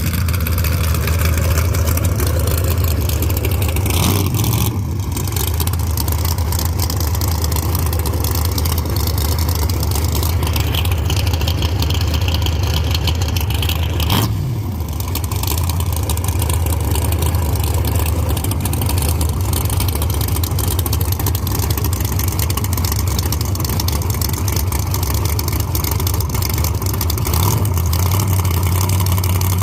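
Drag-racing car engine running with a steady low rumble, dipping briefly twice.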